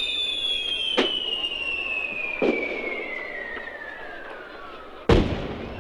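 Fireworks display: a long whistle falling steadily in pitch, with two sharp cracks about one and two and a half seconds in, then a loud bang about five seconds in.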